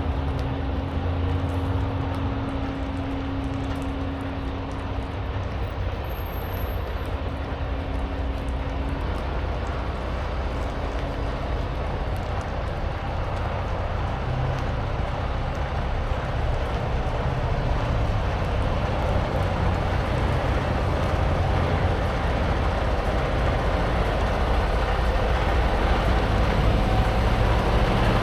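Tractor-trailer's diesel engine droning steadily with road noise while driving, slowly getting louder.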